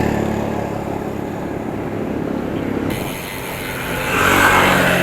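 Road traffic: a motor vehicle's engine running close by, with a rush of tyre and wind noise that swells about four seconds in.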